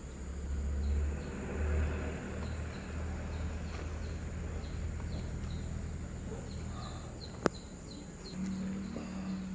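A small bird chirping in a quick run of short high notes over a steady low rumble, with one sharp click about seven and a half seconds in.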